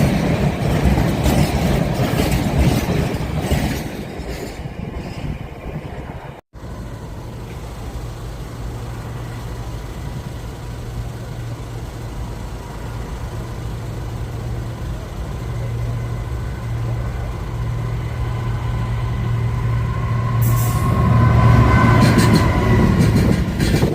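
A train passing with loud rushing wheel and wagon noise that fades after a few seconds. After a break, another train's low, steady drone slowly grows louder as it approaches, with thin high wheel-squeal tones near the end.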